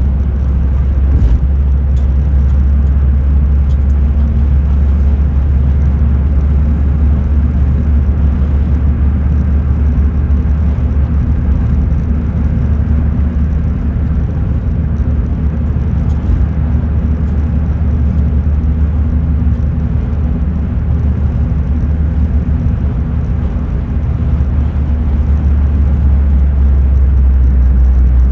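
Car heard from inside the cabin: a steady, loud, low rumble of engine and road noise that does not change over the whole stretch.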